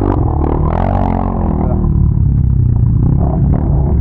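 Can-Am Renegade ATV's big-bore V-twin engine running under way. Its pitch rises and falls once in the first second and a half, then runs steadily.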